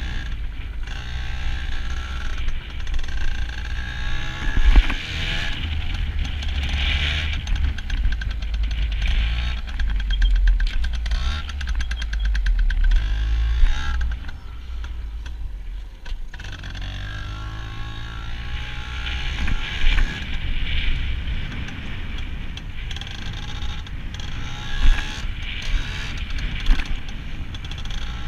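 Yamaha PW80 single-cylinder two-stroke pit bike engine revving up and easing off over and over as it is ridden, its pitch climbing and falling, with a heavy wind rumble on the microphone.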